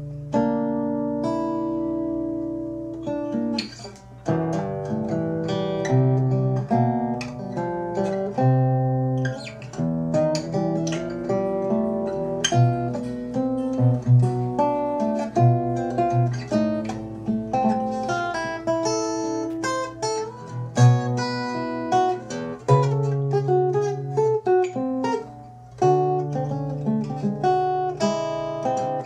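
Acoustic guitar music: plucked and strummed notes in a steady run.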